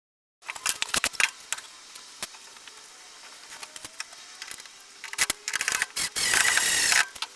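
Workshop handling sounds: a run of sharp clicks and knocks as wooden parts and tools are set down and fitted together. A brief burst of steady noise lasts about a second near the end.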